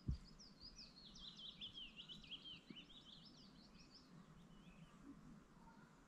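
Faint songbird singing a rapid twittering phrase of high chirps for about three and a half seconds before trailing off. A single knock sounds right at the start.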